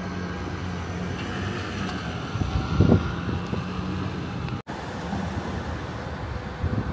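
Vehicle running with a steady low hum and some rattling, a louder knock just before three seconds in, and a momentary cut-out of all sound a little past four and a half seconds.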